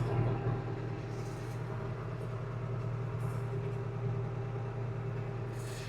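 Tractor engine running at a steady, even drone while pulling a hay rake.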